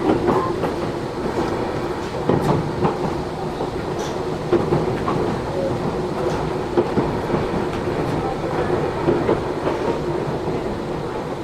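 Matsumoto Electric Railway 3000 series electric train heard from inside the passenger car while running: a steady rumble and hum, with scattered clacks of the wheels over rail joints.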